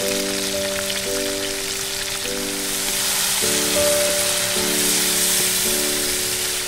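Boneless chicken pieces sizzling in hot oil in a wok, the sizzle growing a little louder past the halfway point. Background music of held chords that change about once a second plays alongside.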